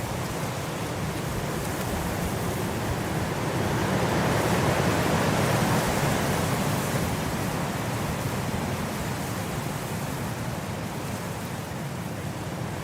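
Blizzard wind blowing in a steady rush, swelling into a stronger gust about halfway through and then easing back.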